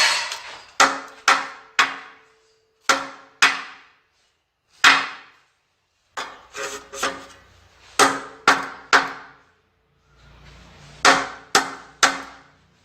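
Hammer tapping in short groups of two to four hard strikes about half a second apart, each with a brief ring, and short pauses between groups.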